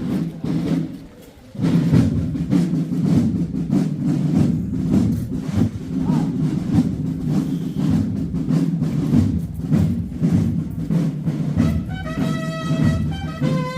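A procession band playing: drums beating steadily and heavily. Near the end, brass instruments come in with held notes.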